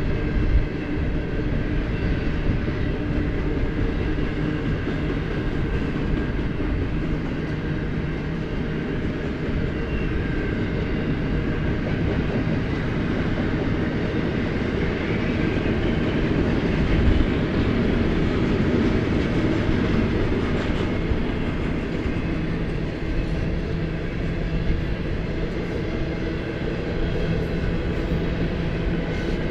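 BNSF double-stack intermodal train's container well cars rolling past: a steady rumble and clatter of steel wheels on rail, with a few brief louder clunks, the strongest about halfway through.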